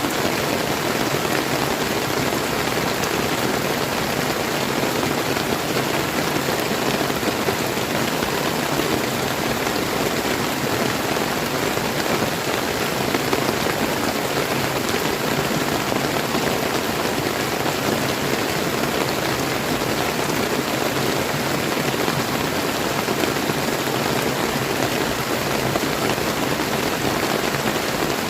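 Steady rain falling, pattering on surfaces, mixed with the rush of a clear river flowing.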